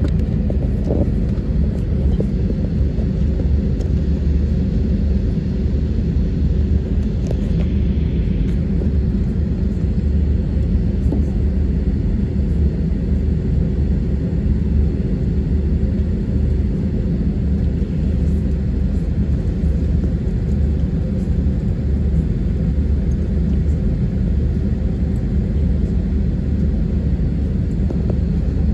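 Steady low rumble of cabin noise inside an Airbus A320 with its jet engines running, holding an even level throughout.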